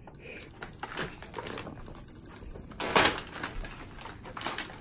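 Packing paper rustling and crinkling in short irregular bursts as a cat plays on it and a feather wand toy is dragged over and under it, with one louder crunch about three seconds in.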